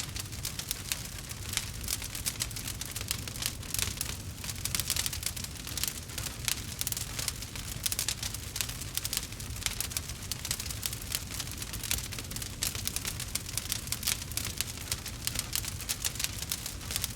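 Campfire crackling: a dense, irregular stream of sharp pops and snaps over a steady low rumble of the burning fire.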